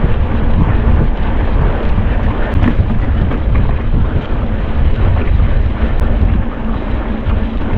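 Wind buffeting the microphone of a mountain bike rider's action camera while riding at speed, a loud steady rumble with a few sharp clicks from the bike rattling over rough ground.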